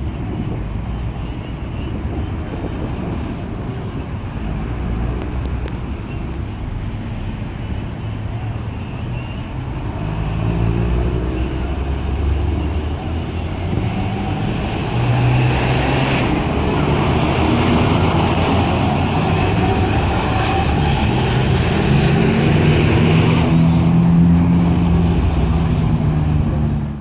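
Scania K410 coach's six-cylinder diesel engine running as the bus drives, with road and traffic noise; the engine note climbs a few times as it pulls through the gears, and the sound gets gradually louder.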